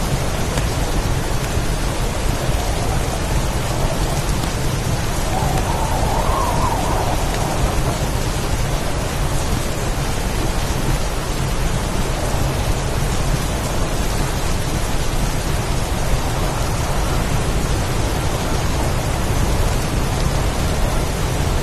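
Heavy rainstorm with wind: a dense, steady hiss of rain over a low rumble, swelling slightly about six seconds in.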